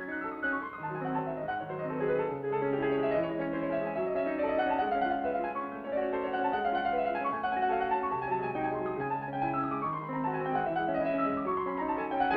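Cartoon score music led by piano: a lively melody over a moving bass line, with quick runs of notes sweeping across the keyboard in the second half.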